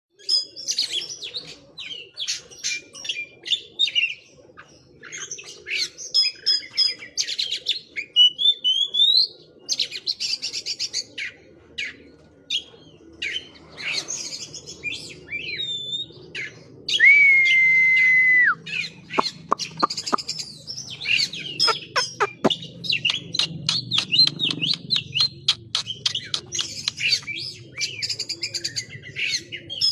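Oriental magpie-robin (kacer) singing a long, varied song of mimicked phrases: quick chirps, trills and rising whistles, with one long held whistle about halfway through followed by a run of sharp clicks.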